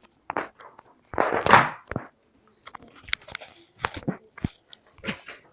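Scattered close clicks and rustles, with one louder rustling burst about a second in.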